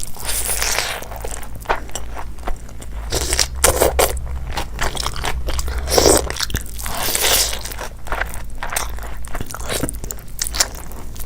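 A person chewing and biting food close to the microphone, with irregular crunches one after another over a steady low hum.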